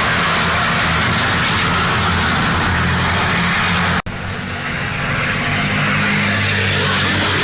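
Tata Prima race trucks' diesel engines running hard, a dense, loud engine and road noise with a steady low drone. The sound cuts out abruptly about four seconds in, then comes back quieter and builds again.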